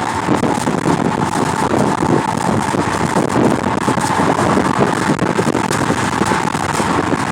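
Loud wind buffeting the microphone in a car: a constant rushing, fluttering noise over the sound of the car.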